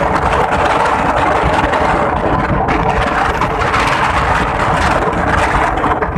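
Strong wind buffeting the microphone, a loud rushing rumble, over a steady motor hum.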